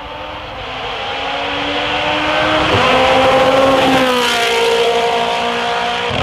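Rally car engine under hard acceleration, getting louder as it approaches and then easing off slightly as it passes. Its pitch climbs and drops sharply at gear changes about three and four seconds in.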